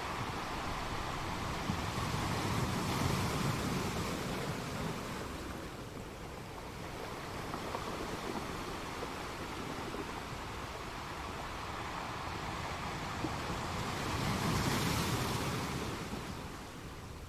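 Ocean surf: a steady rush of noise that swells twice, about three seconds in and again near the end, as waves wash in.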